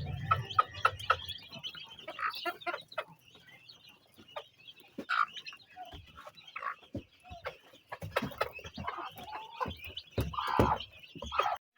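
A flock of chickens, including young Brahma chicks, clucking and peeping in many short overlapping calls. The sound cuts off abruptly just before the end.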